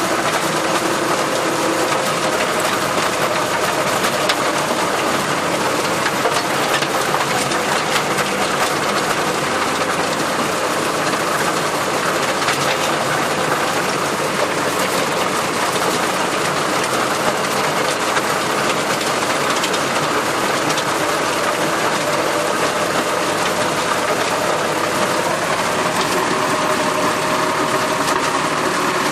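Massey Ferguson tractor running at a steady, unchanging speed, its engine and machinery noise constant.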